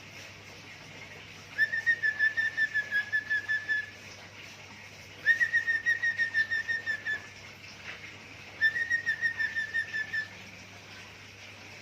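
Pet cockatiel whistling three phrases of rapid, evenly pulsed notes at one steady pitch, each about two seconds long, in mimicry of other sounds.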